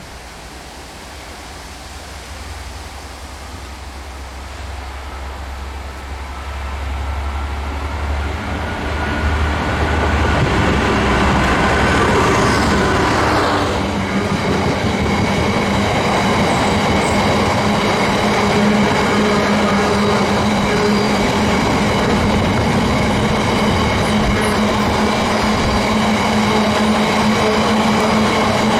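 A train approaching and passing through the station. It grows louder over the first ten seconds, then runs past steadily and loudly, with wheel and rail noise and a steady engine tone.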